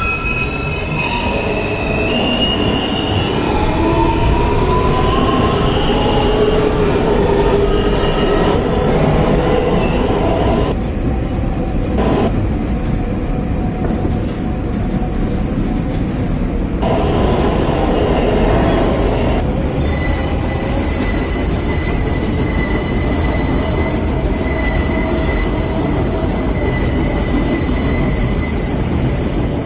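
NYC Subway L train running between stations, heard from inside the car: a steady loud rumble of wheels on rail. High squealing tones shift in pitch through the first several seconds, and two steady high tones come in at about twenty seconds.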